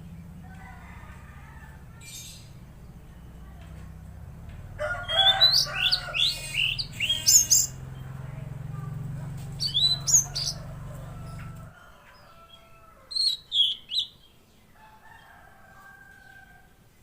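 Mangrove blue flycatcher (tledekan laut) singing in bursts of sharp, high whistled and trilled phrases, with a steady low hum underneath that cuts off about twelve seconds in.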